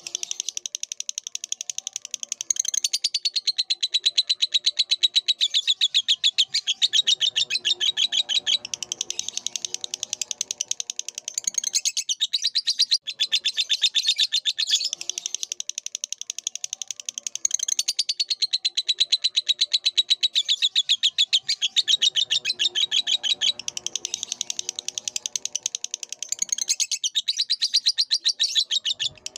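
Lovebird singing a long, nearly unbroken song of very rapid, high chattering notes, pausing briefly near the end.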